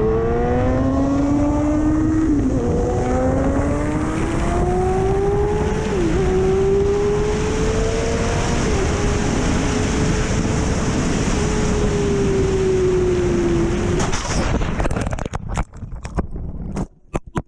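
Motorcycle engine accelerating hard through the gears, its pitch climbing and dropping back at each of three upshifts, over heavy wind rush. The note then holds steady, eases off and stops suddenly about fourteen seconds in, followed by a string of sharp irregular knocks and clatter.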